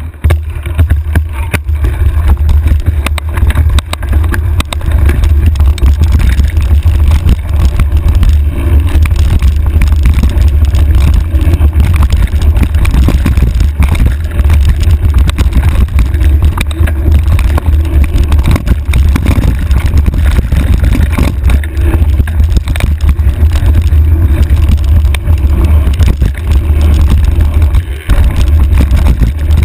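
Heavy, steady low rumble of wind buffeting and trail vibration on a handlebar-mounted camera during a ride, with constant rattling over it. It starts suddenly right at the beginning.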